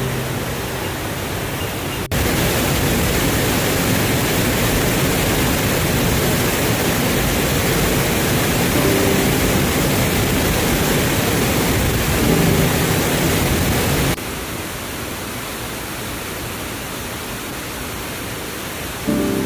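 Waterfall: a steady rush of falling water. It gets suddenly louder about two seconds in and drops back to a lower level about five seconds before the end.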